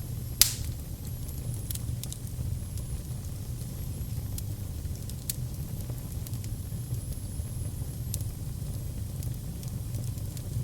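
Wood fire burning in a fireplace: a steady low rumble of flames with scattered crackles and one loud pop about half a second in, over a faint wavering high whistle.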